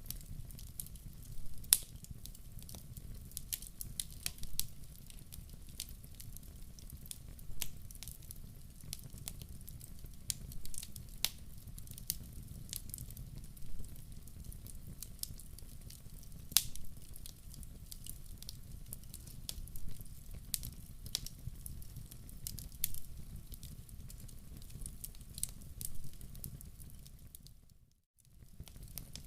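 Log fire in a wood-burning stove crackling, with frequent sharp pops over a steady low rumble of flames. Near the end the sound dips briefly to near silence, then comes back.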